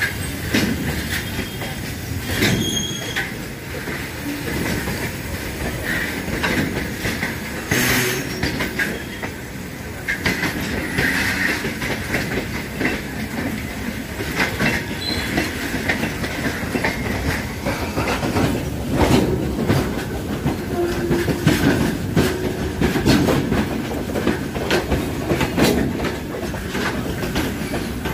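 A passenger train and a goods train running side by side on adjacent tracks: a steady, loud rumble of wheels on rails, with repeated clickety-clack clatter as the wheels cross rail joints.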